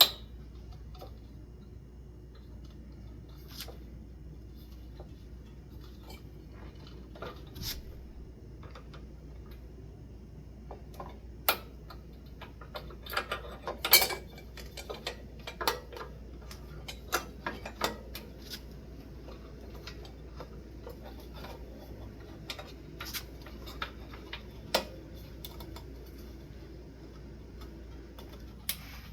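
Scattered light clicks and knocks of metal ceiling-fan parts being handled and worked on by hand, with a burst of rattling taps about halfway through, over a faint steady low hum.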